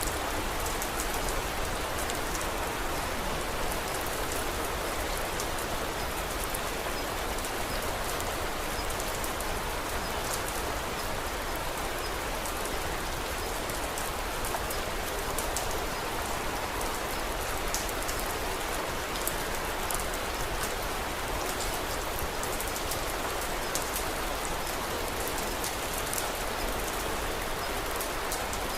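Steady rain: an even, unbroken hiss with many small sharp ticks of drops scattered all through it.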